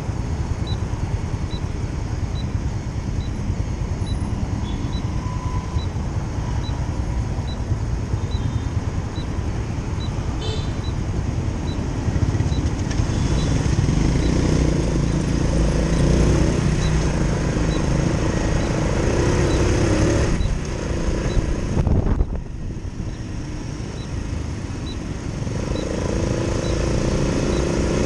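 Motorcycle engine running under way with road rumble. It grows louder about halfway through, dips sharply for a moment, then builds again. A faint regular tick, about two a second, sounds through the first half.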